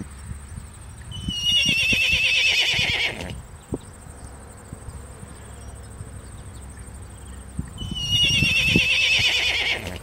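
A horse whinnying twice, each call about two seconds long, high and quavering, starting with a rising note; soft low thuds come in between.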